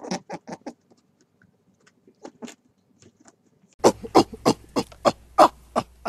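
Rabbits nibbling and chewing grass and lettuce leaves, making small crisp crunching clicks. A little under four seconds in, this gives way to a louder recording with a low hum underneath and a run of sharp clicks or knocks, about three a second.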